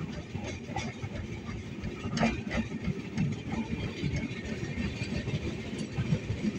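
Train running, heard from inside a passenger coach: a continuous low rumble and rattle of the wheels and carriage, with a couple of sharper knocks about two seconds in.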